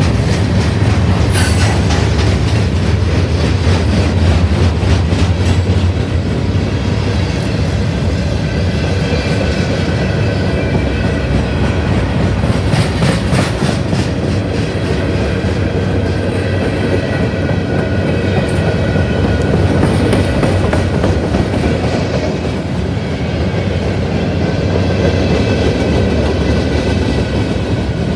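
Train rolling past close by: steady rumble with wheels clicking over rail joints throughout.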